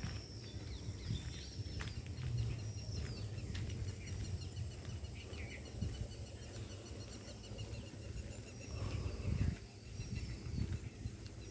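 Several birds calling and singing: repeated high chirps and short falling whistles, with a fast run of short notes from about two to six seconds in, over a steady low rumble.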